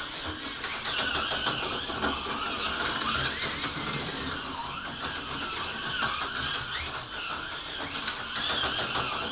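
HO-scale slot cars running around the track, their small electric motors whirring with a whine that rises and falls as the throttle is worked.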